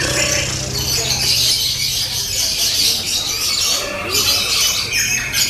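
Several lovebirds singing at once in long, dense, high-pitched chattering trills, with a low steady hum underneath.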